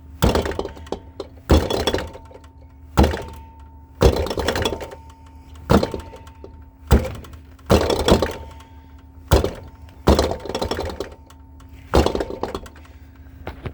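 Heavy thunks about every second and a half as a refrigerator compressor is kicked, over a faint steady hum from the powered compressor. It is a Kenmore Elite's LG-made compressor trying to start: it only turns a little, a sign that something is broken inside.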